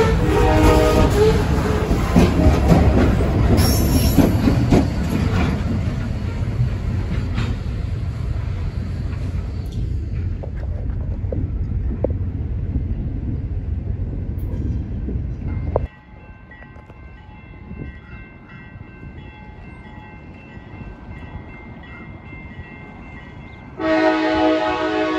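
Freight cars rumbling and clacking over the rail joints as they roll past, fading away over the first several seconds, with a brief locomotive horn chord at the start. Near the end a diesel locomotive's multi-chime air horn blows loudly as it approaches.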